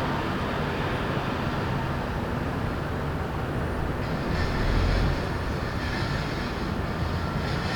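Steady hum of city traffic, with a heavier low rumble swelling and passing about halfway through as a vehicle goes by.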